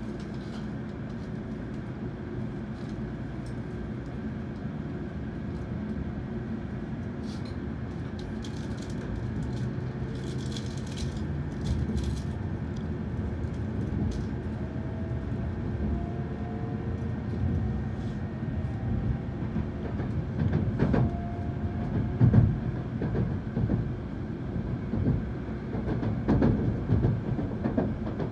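Hikari Shinkansen train pulling out of a station and gathering speed, heard from inside the carriage: a low rumble that slowly grows louder, with faint rising whines about halfway through. Several sharp knocks come near the end.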